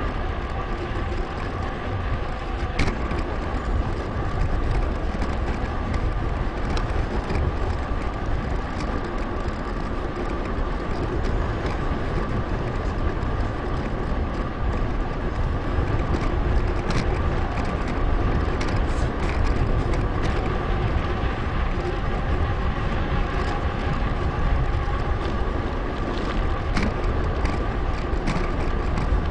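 Riding noise from a bicycle on a paved path: steady rumbling wind on the action camera's microphone with tyre and road noise, a faint steady hum and scattered small clicks and knocks from bumps.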